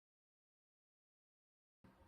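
Near silence: the sound track is blank, then faint room noise with a low hum cuts in near the end.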